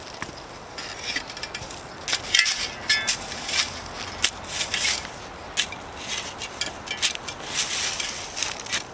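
Digging in garden soil: irregular crunching and scraping strokes that get louder about two seconds in.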